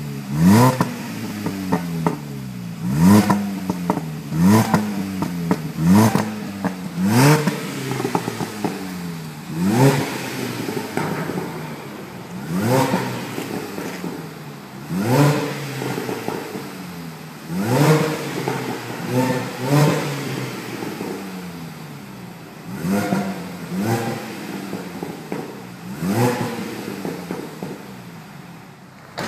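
Sporty car engine and exhaust revved in about a dozen quick blips. Each time the pitch shoots up and then falls back toward idle, with pops and crackles from the exhaust as the revs drop.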